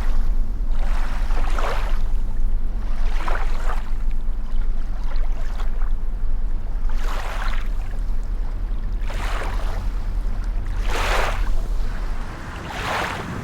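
Wind rumbling on the microphone out on the water, with a rushing splash about every two seconds. The low rumble drops away near the end.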